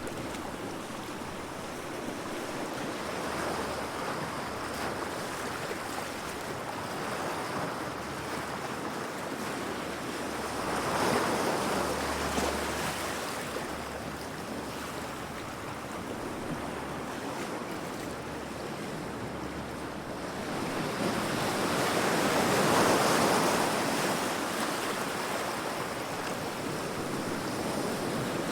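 Heavy sea waves surging and breaking against rocks, a steady wash of surf that swells in big surges about ten seconds apart, with wind noise underneath.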